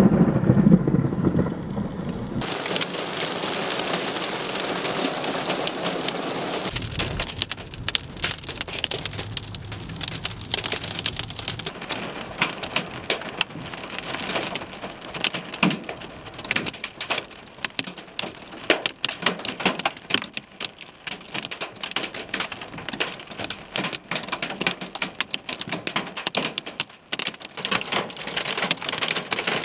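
Thunder rumbling at the start gives way to heavy rain. From about seven seconds in it turns into a dense clatter of hailstones striking a hard surface, many sharp hits a second.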